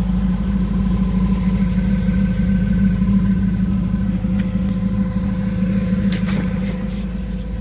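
Modified 355 cubic-inch small-block V8 with ported Vortec heads, a ZZ9 cam, 1 3/4-inch headers and a 3-inch Magnaflow exhaust, idling steadily.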